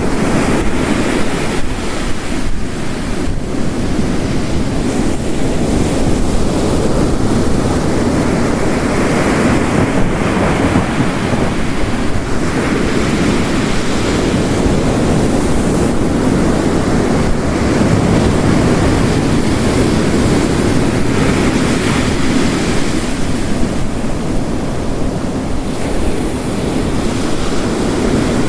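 Ocean waves surging and crashing on a rocky coast in slow swells, layered over the steady hiss of heavy rain.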